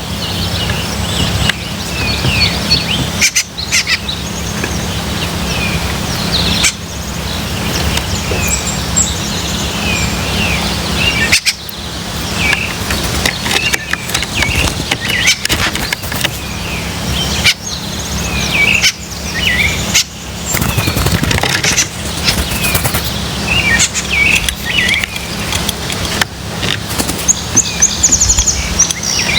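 Wild birds giving many short chirps and call notes throughout, over a steady low rumble, with a few brief knocks.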